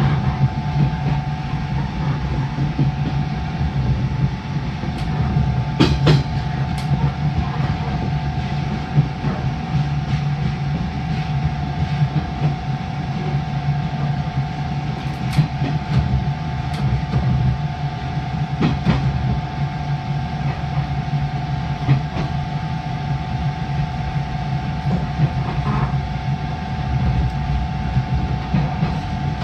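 JR East 583 series electric train running, heard from inside the lead car: a steady rumble with a continuous hum over it, and the wheels clacking over rail joints every few seconds at irregular intervals.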